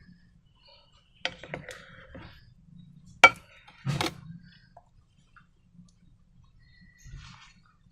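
Several sharp clicks and knocks of hard objects being handled, the loudest about three seconds in, with a softer dull knock near the end.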